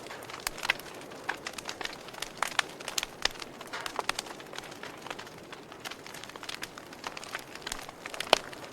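Campfire crackling: wood burning with irregular sharp pops and snaps over a soft steady hiss, one louder pop near the end.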